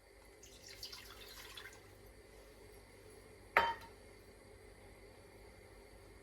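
Kitchen handling sounds while making pickled peppers: a soft wet rustle for a second or so, then one sharp clink of glass about three and a half seconds in.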